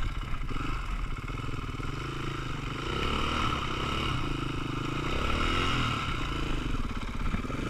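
Off-road motorcycle engine running and revving up and down, with some clatter.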